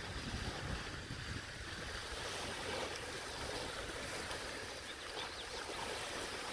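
Lake waves washing on the shore, a steady rushing wash of water.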